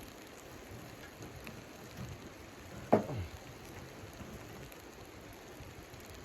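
Steady, even patter like rain on a surface, with one sharp knock about three seconds in whose pitch drops quickly.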